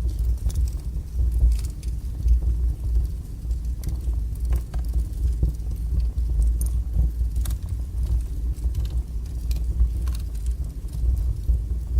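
Wood fire burning strongly in a fireplace: a steady low rumble of flames with frequent irregular crackles and pops.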